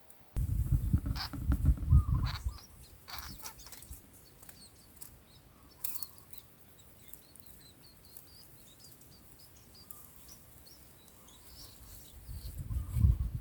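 Faint, short, high bird chirps scattered through, with a loud low rumble in the first two seconds and again near the end.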